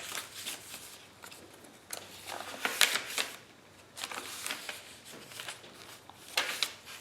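Paper pages of a handmade journal being handled and turned, giving several short rustles, the loudest about three seconds in.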